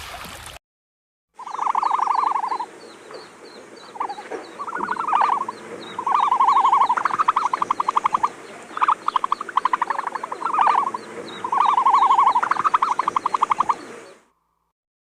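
Animal calls: a series of rapid pulsed trills, each about a second long, repeated many times, over a faint background of quick high ticks. They start about a second and a half in and cut off suddenly near the end.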